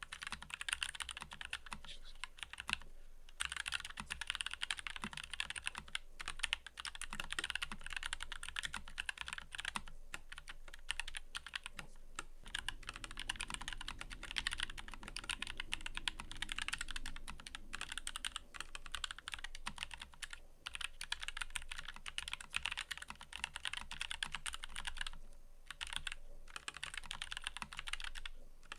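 Fast, steady typing on a mechanical keyboard, a dense run of key clicks and clacks with a few brief pauses.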